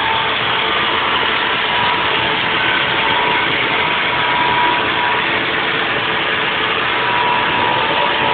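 Haas VF4 CNC vertical mill running steadily while 3D-machining a block: an even machine noise with a high whine that swells and fades every second or two.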